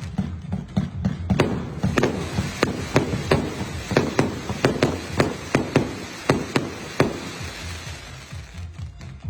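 Fireworks cake firing a rapid string of shots, sharp cracks and bangs coming about two to three a second, thinning out near the end.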